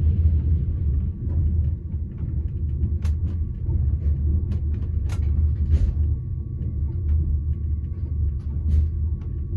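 Passenger train running, heard from inside the coach: a steady low rumble with scattered sharp clicks and creaks, the clearest about three, five and nine seconds in.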